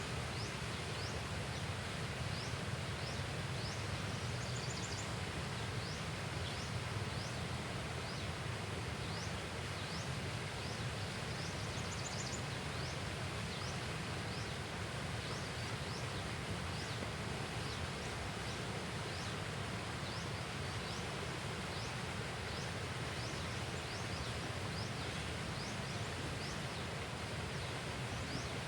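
Steady outdoor ambience: a constant low rushing noise with short, high, falling chirps repeating about once a second, and a few brief higher trills now and then.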